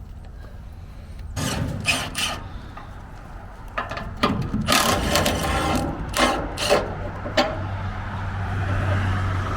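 A few sharp knocks and scrapes of metal gear being handled, then a vehicle engine running steadily from about three-quarters of the way through.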